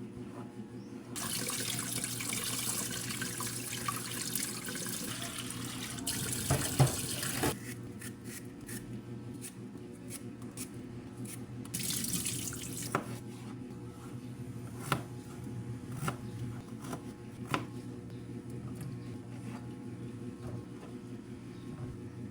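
Water running for about six seconds, stopping, then running again briefly, with scattered sharp clicks and knocks during and after it over a low steady hum.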